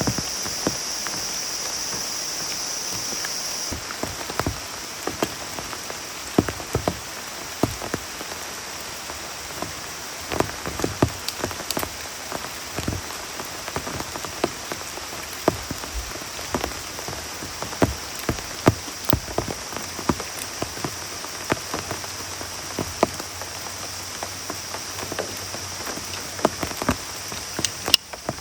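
Heavy rain falling, with large drops tapping irregularly on a surface over a steady hiss. A high part of the hiss drops away about four seconds in.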